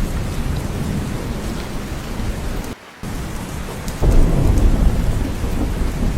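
Steady rain with a low thunder rumble underneath, dropping out briefly just before three seconds in. About four seconds in, the rumble swells suddenly louder, with scattered sharp drop ticks over the rain.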